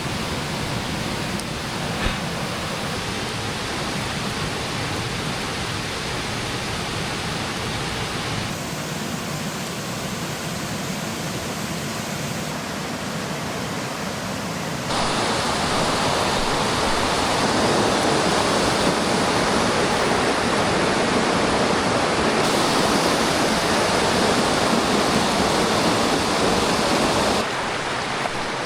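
Mountain creek water running, a steady rushing. It changes abruptly a few times, from one stretch of rushing to another, and is louder from about halfway through until near the end.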